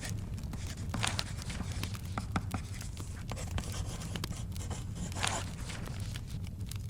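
Wood fire in a fireplace crackling, with a steady low rumble and scattered sharp pops, while a paper book page is turned twice, about a second in and again about five seconds in.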